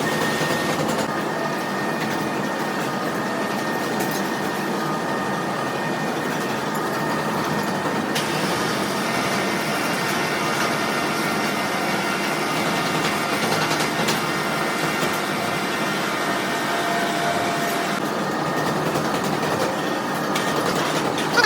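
Heavy machinery running steadily, a dense even mechanical noise, with a sharp knock right at the end.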